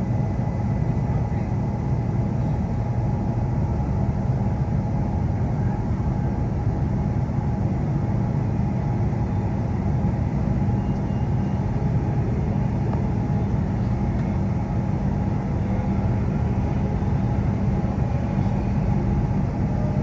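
Steady low rumble heard inside a moving Queensland Rail New Generation Rollingstock electric train: wheels on the track and the running gear, with no change in speed or pitch.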